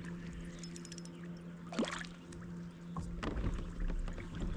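Kayak's electric trolling motor humming steadily, cutting off about three seconds in, followed by knocks and handling noise in the boat. A brief rising whine sounds near the middle.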